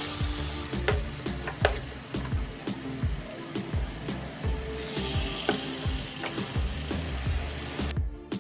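Spiced mashed-potato masala sizzling as it goes into hot oil tempered with asafoetida in a kadai, with short scrapes and taps of a spatula against the pan. The sizzle grows stronger past the middle and cuts off suddenly near the end.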